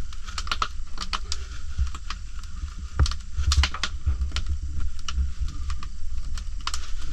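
Oak firewood fire crackling, with irregular sharp pops several times a second over a low rumble.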